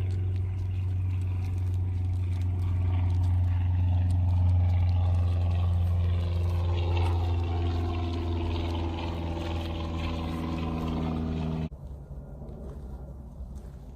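Engine running steadily with a strong low hum whose pitch drifts slowly, cutting off suddenly near the end.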